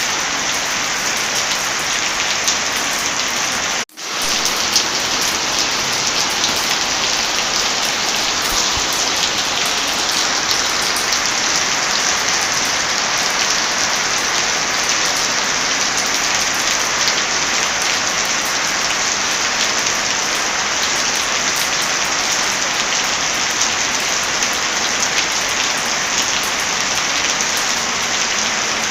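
Heavy rain falling steadily, a dense even hiss, mixed with scattered sharp crackles of a wood fire. The sound cuts out for a split second about four seconds in, then resumes.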